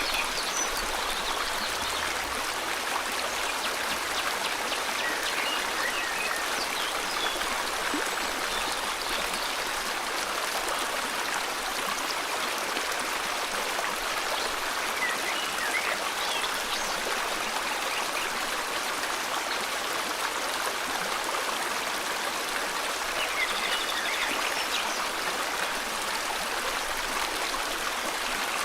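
River water rushing steadily over rocks, with short bird chirps breaking in now and then.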